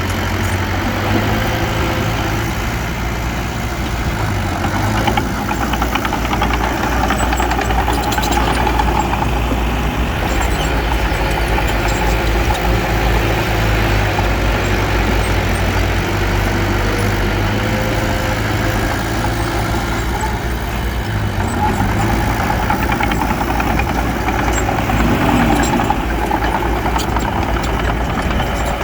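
Heavy diesel engine of earthmoving machinery running steadily under load.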